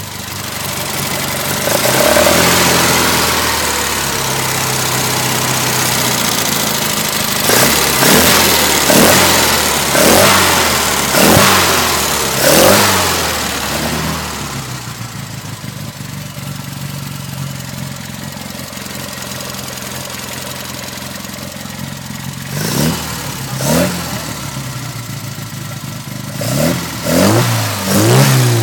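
Mini Cooper S 970cc four-cylinder A-series engine running out of the car, idling between quick throttle blips. A run of sharp revs rising and falling comes in the first half, then a stretch of steady idle, then more blips coming faster near the end.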